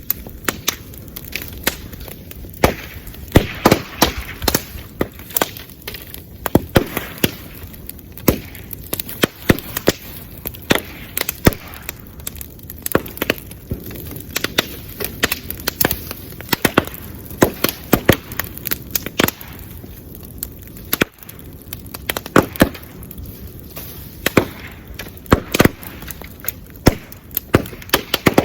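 Bamboo bonfire crackling, with frequent loud, irregular pops and cracks over a steady hiss of flame, as heated bamboo sections burst.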